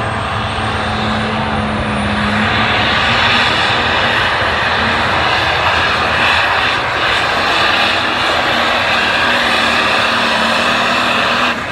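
Light pro stock pulling tractor's turbocharged diesel engine running flat out during a pull, loud and steady, easing off slightly near the end.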